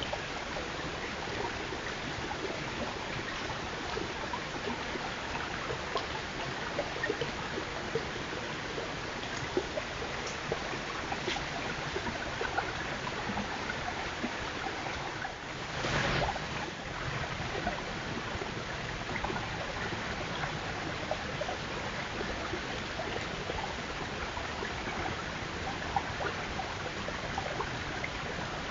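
A steady rushing noise with faint scattered clicks, and a brief louder rush about sixteen seconds in.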